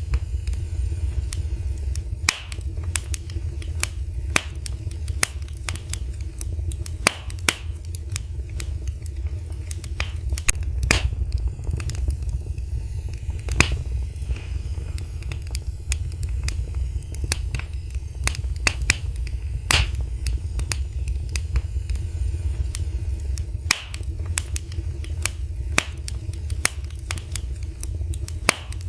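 Wood fire burning in a fireplace, crackling with irregular sharp pops, a few louder snaps standing out, over a steady low rumble of the flames.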